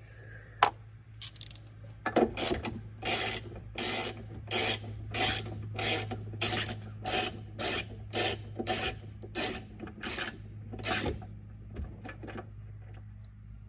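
A small 9/32 wrench backing a tiny nut off a car's trunk lid, with a rasping stroke a little under twice a second, about sixteen in all, after a single click near the start.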